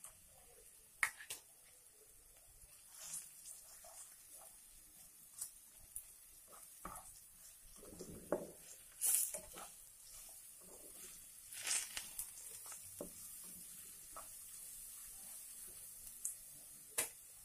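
Oncom cubes and dried anchovies frying in a nonstick wok: a faint sizzle with scattered clicks and short scrapes as the food is added and stirred.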